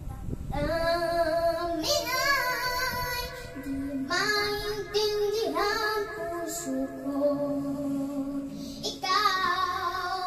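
A young girl singing a ballad into a microphone in phrases, holding notes with a wavering vibrato, over a backing music track.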